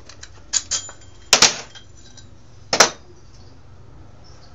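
Steel parts clinking and clanking together as a handle is set in place on a metal cart: a few light clinks, then two loud metal knocks about a second and a half in and near three seconds in.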